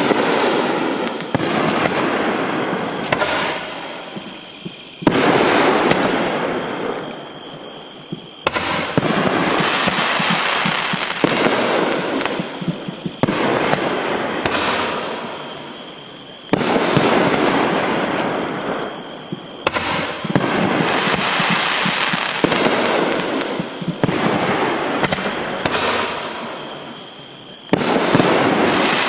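Rack-fired aerial fireworks shells of the 'Strobing Metropolis' strobe item bursting one after another, about ten times. Each burst begins with a sudden bang and trails off over two to three seconds.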